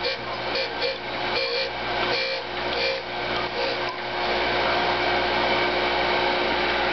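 Hand-fed surface grinder running, its abrasive wheel grinding down a thrust washer: a steady motor hum under a grinding hiss that comes and goes for the first few seconds, then holds steady from about four seconds in.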